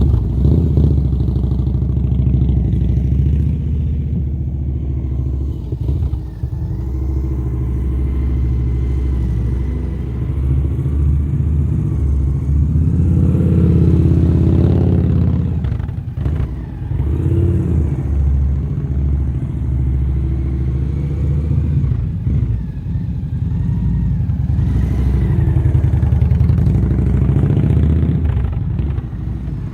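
Motorcycle engine running at low revs during slow-speed manoeuvring. The revs rise briefly about halfway through and again near the end.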